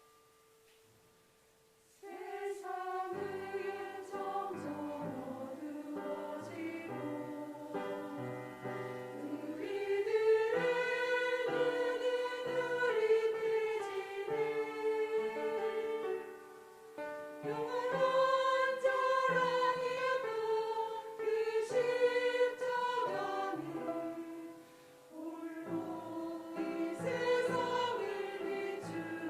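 Church praise team singing a worship song as a choir, coming in about two seconds in after a moment of quiet, with brief pauses between phrases.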